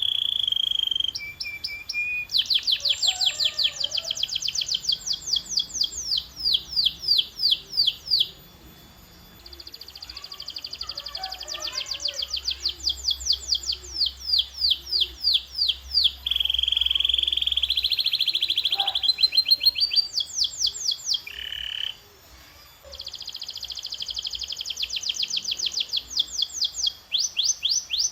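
Domestic canary singing: runs of quick repeated notes, rising and falling in sweeps, alternating with long held whistled notes, broken by two short pauses.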